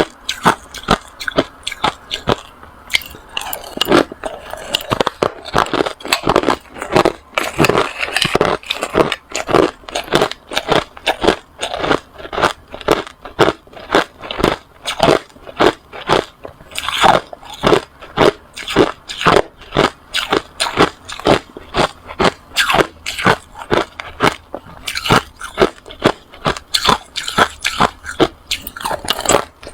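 Hard ice being bitten and chewed close to the microphone: a steady run of sharp, crisp crunches, about two or three a second.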